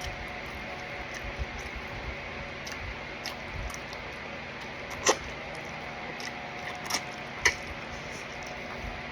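Someone eating: soft chewing and mouth sounds over a steady room hiss, with three sharp clicks, the loudest about five seconds in and two more close together near the end.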